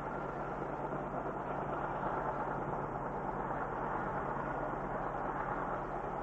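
Freight train hauled by a DX-class diesel-electric locomotive running, a steady engine drone under the noise of the train rolling along.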